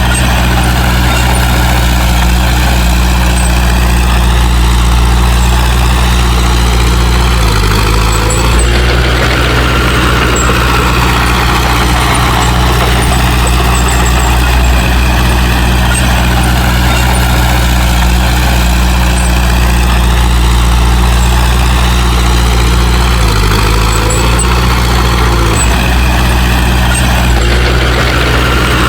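Heavy diesel engine of a bulldozer running steadily, its note stepping and swelling about 8 seconds in and again about 23 seconds in as the machine works.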